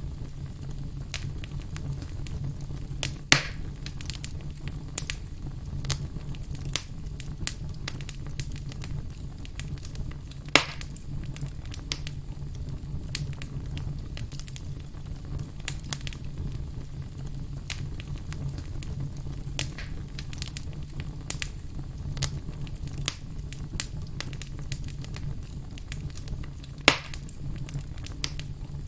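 Firewood burning: many small crackles and snaps over a low, steady rumble, with three much louder pops spread through.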